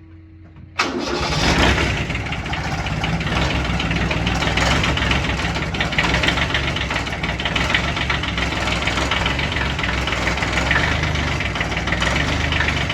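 Small glow-plug diesel engine of a lawn mower, its glow plugs just preheated, comes to life abruptly about a second in and keeps running steadily with a knocking diesel clatter.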